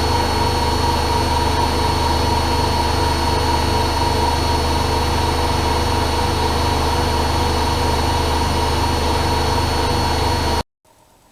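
AEG Öko-Lavamat Lavalogic 1600 washing machine spinning at a steady high speed, with a constant whine over a low hum. It cuts off suddenly near the end.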